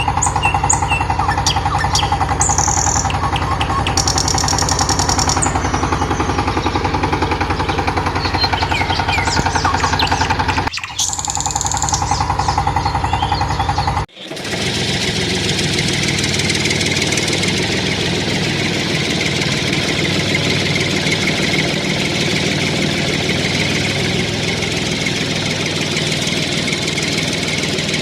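The motor of a DIY model tractor running steadily with a fast, even chugging pulse. The sound breaks off sharply twice, about eleven and fourteen seconds in, and after the second break it carries on as a steadier, hissier running noise.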